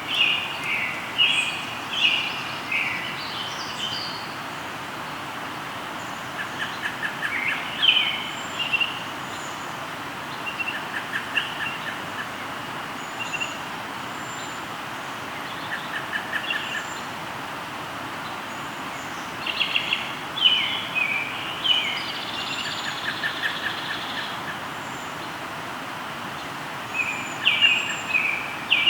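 Several birds singing over the steady rush of a flowing river. Loud bursts of song come a few times, with a short even trill repeated in between and thin high notes.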